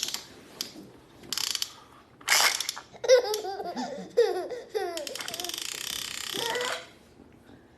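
A baby laughing: short breathy bursts of laughter, then a run of quick pitched giggles, ending in a long breathy laugh.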